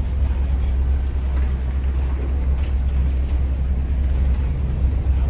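A Chao Phraya river tourist boat running steadily under way: a continuous low engine rumble with an even wash of noise over it.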